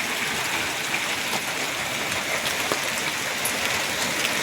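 Heavy storm rain mixed with hail: a steady, dense hiss of water pouring down, with scattered sharp ticks of hailstones striking hard surfaces.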